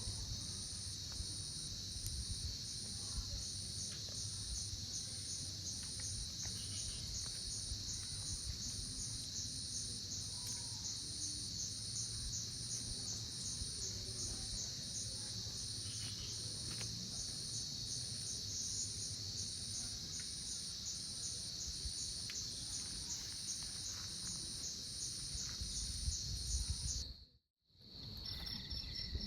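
Insects, crickets or similar, calling in a steady high-pitched chorus, with an even pulse repeating about one and a half times a second over a low rumble. A couple of seconds before the end the sound cuts out abruptly, then resumes with a different, faster pulsing call.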